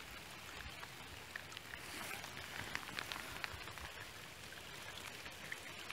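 Rainwater running across a flooded footpath with rain falling: a faint, even hiss dotted with small drop ticks.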